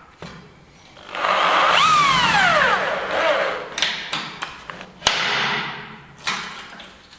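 An electric power tool runs briefly: a burst of cutting or grinding noise whose motor whine rises quickly, then winds down as it is released. Several sharp clanks follow, typical of metal stock being handled.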